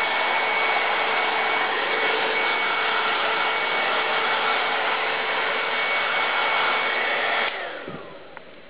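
Handheld hair dryer running: a steady rush of blown air with a motor whine. About seven and a half seconds in it is switched off, and the whine falls away as the motor spins down.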